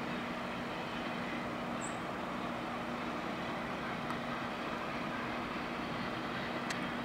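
Steady rumble of a passenger train's coaches running away into the distance, with a low steady hum.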